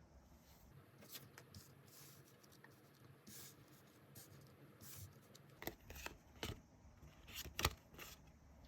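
Tarot cards being handled: faint rustles and swishes of cards, then a few sharp card taps and snaps in the second half.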